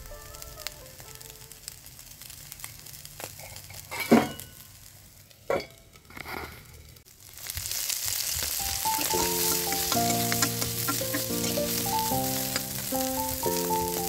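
Silkworm pupae and onion dry-frying in a wok. The first half has a faint sizzle broken by a few sharp knocks; about halfway in, the sizzle turns loud and steady.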